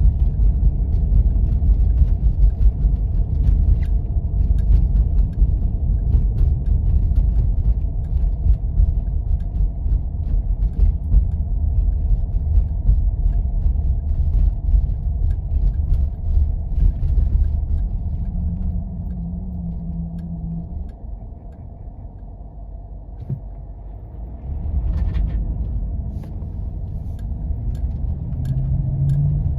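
A Jeep driving on snow-covered roads: a steady low rumble of engine and tyres, with many small clicks and crackles over it. It eases off and gets quieter about two-thirds of the way through, then picks up again.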